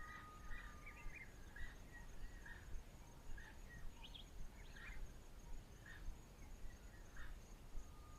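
Faint bush ambience: a bird calling short notes over and over, about one or two a second, over a thin steady high insect buzz.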